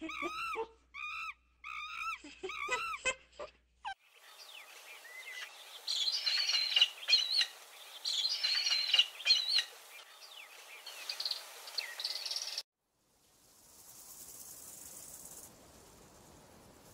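Short pitched calls repeated about twice a second for the first four seconds, then a chorus of songbirds chirping and trilling. The chorus cuts off abruptly about twelve seconds in, leaving a faint high hiss.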